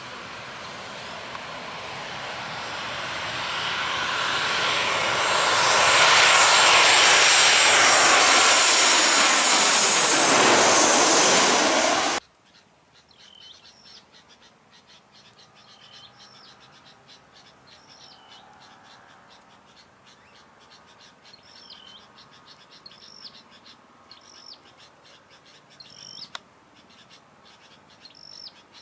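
An airliner passing low overhead: its engine noise swells over about six seconds, stays loud with a falling pitch as it goes by, then cuts off suddenly about twelve seconds in. After that there are short, repeated chirps over a quiet background.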